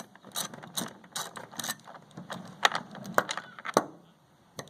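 A 10 mm ratcheting wrench clicking as it backs out a bolt on a generator's plastic cover: a string of sharp, uneven clicks, about two a second, with a short pause near the end.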